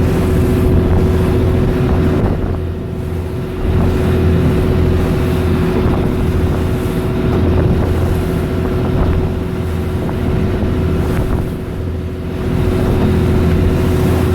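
Motorboat engine running steadily under way, a low hum with a held tone above it, with wind buffeting the microphone.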